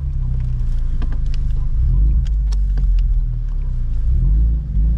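Car engine idling with a deep, pulsing low rumble. A few light clicks are heard over it.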